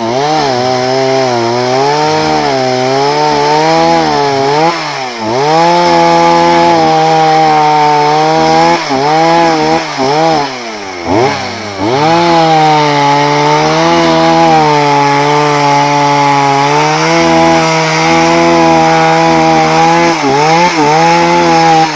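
Two-stroke chainsaw cutting into a felled jatobá trunk, engine held at high speed. Its pitch sags and recovers several times as the chain bogs in the dense hardwood.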